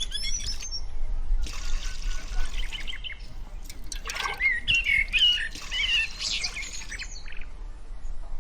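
Small birds chirping and twittering in short warbling clusters, with two stretches of steady hiss in between.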